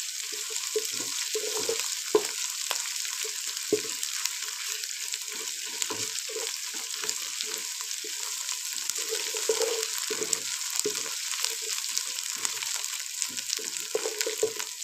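Fried sliced onions and garlic-ginger paste sizzling in hot ghee in a pot, a steady sizzle with many small pops. A wooden spatula stirs and scrapes against the pan in short, irregular strokes.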